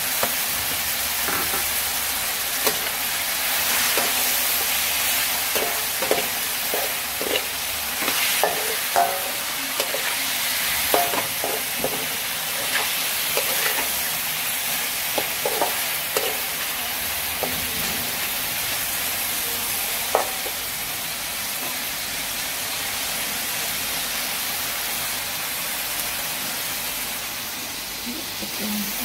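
Chicken livers sizzling steadily in a wok, with a metal spatula scraping and clinking against the pan at intervals as they are stirred; the clinks stop after about twenty seconds and the sizzle goes on alone.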